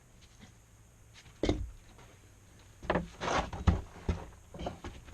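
Irregular knocks and a scrape of wood and metal being handled while a floor is jacked and shimmed, the loudest knock a little past the middle.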